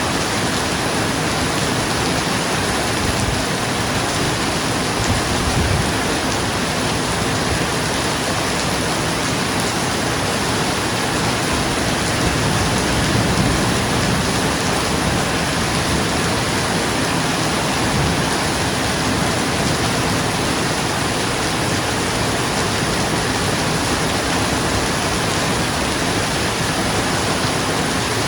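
Steady heavy rain falling on a roof, an even unbroken hiss, with a slight low swell about halfway through.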